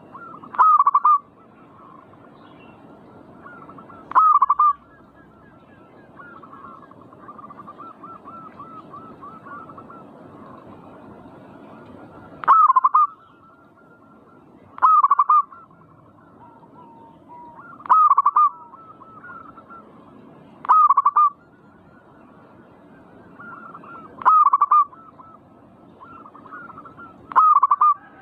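Zebra doves (perkutut) cooing: eight loud, short runs of quick coo notes a few seconds apart, over fainter cooing from other doves throughout.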